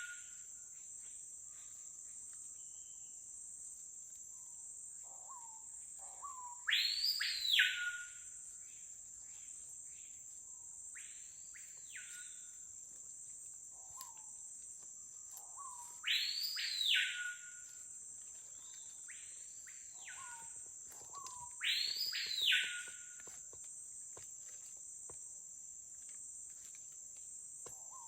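Screaming piha (capitão-do-mato) calling: a short low note, then a loud whistle that sweeps up high, holds and drops away. Three loud calls, about seven, sixteen and twenty-two seconds in, with two fainter calls of the same shape between them. A steady high insect drone runs underneath.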